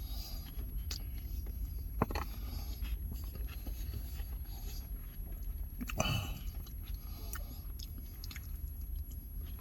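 Close-up chewing and eating of oxtail poutine, with scattered small clicks and two sharper knocks about two and six seconds in, over a low steady hum.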